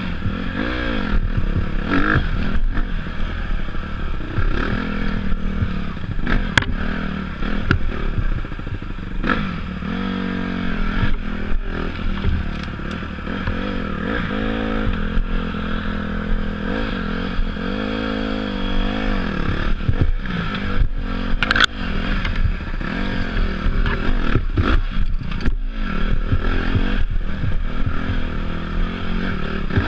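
Dirt bike engine revving up and down again and again while being ridden off-road, with scattered knocks and rattles from the bike over rough ground.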